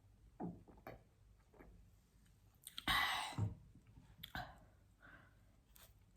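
Wet mouth sounds from eating close to the microphone: a few sharp lip smacks and tongue clicks, with one loud breath out about three seconds in.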